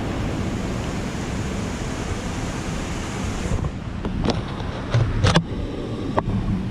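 Steady rushing of water from a river or waterfall, which drops away suddenly about halfway through. A few sharp knocks follow near the end.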